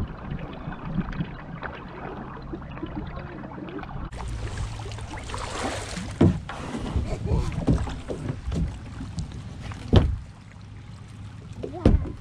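Kayak out on the water: paddle strokes and water sloshing against the hull, with several sharp knocks, the loudest about ten seconds in.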